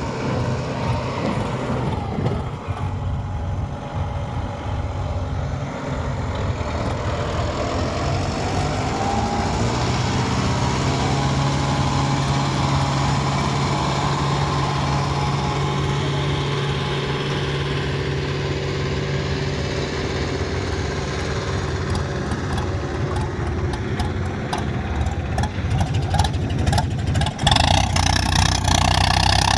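Diesel tractor engines running, with a steady low engine note that settles in about ten seconds in; near the end the sound gets suddenly louder.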